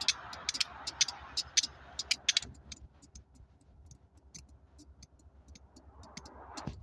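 Faint steady low hum and rumble of the Alaska Railroad passenger train, with a crackle of sharp clicks and a hiss over the first two seconds or so that die away, leaving the quieter hum.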